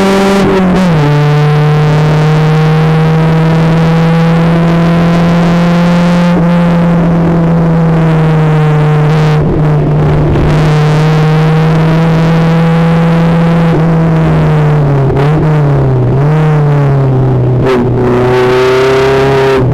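Renault Twingo Twin'Cup race car's engine heard from inside the cabin under load on track: a drop in pitch about a second in as it shifts up, a long steady pull, then a few quick dips in pitch around fifteen to seventeen seconds in as it slows for a corner, climbing again near the end.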